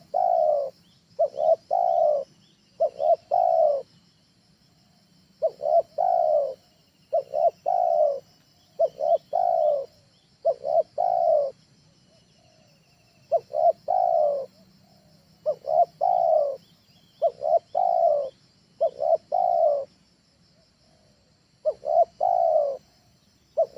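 Spotted dove (tekukur) cooing: short phrases of a brief note followed by longer coos, repeated about once a second in runs of three to five, with pauses of a second or two between runs. A steady faint high hiss runs underneath.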